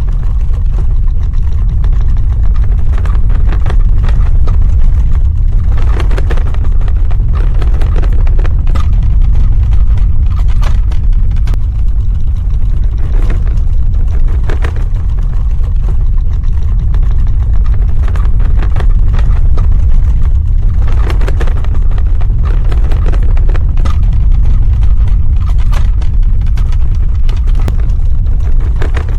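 Earthquake sound effect: a continuous deep rumble, with crackling and rattling that comes and goes over it.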